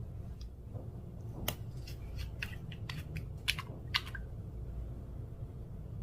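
Clear slime being worked by hand, giving a quick run of about ten small clicks and pops between about one and a half and four seconds in, over a steady low hum.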